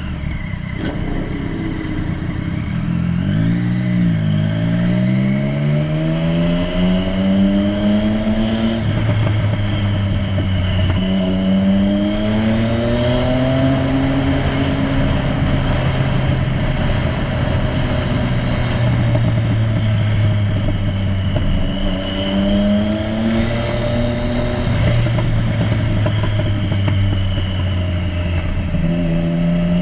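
Motorcycle engine accelerating through the gears: the pitch rises steadily, then drops suddenly at each of several gear changes.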